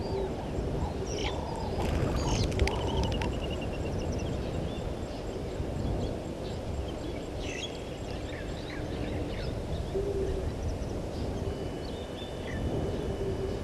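Outdoor bush ambience: several wild birds calling over a steady low rumbling noise. Short high chirps and a brief trill come in the first few seconds, more chirps around the middle, a few short low notes, and a thin steady whistle near the end.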